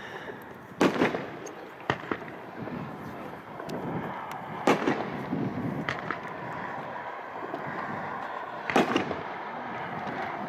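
Consumer 1.4G fireworks finale cake firing. Five loud, sharp reports come a second or three apart, with steady crackling and hiss between them.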